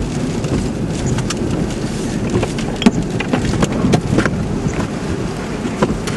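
Steady road and wind rumble inside a moving car, with scattered sharp ticks and knocks.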